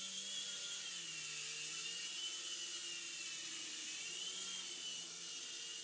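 Small electric motor and rotor blades of a toy RC helicopter whirring steadily, a high whine over a lower hum whose pitch wavers slightly up and down.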